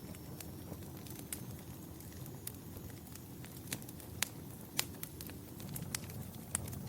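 Wood fire crackling: irregular sharp pops and snaps, a few louder ones in the middle, over a low steady rumble of the burning.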